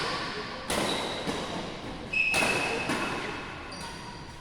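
Badminton rackets smacking a shuttlecock in a rally: a few sharp hits, the loudest about a second and a half apart, each echoing in a large hall, with short high squeaks between them.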